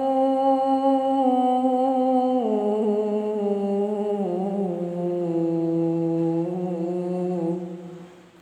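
A single voice singing an Arabic shalawat, holding one long note on a line's last syllable. The note steps down in pitch twice and fades out near the end.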